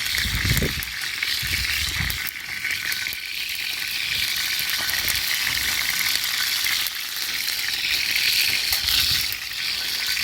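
Chicken cartilage frying in a steady, crackling sizzle over a campfire.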